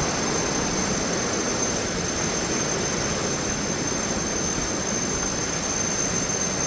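Thomson's Falls, a 74-metre waterfall, heard close up at its base as a steady, even rush of falling water.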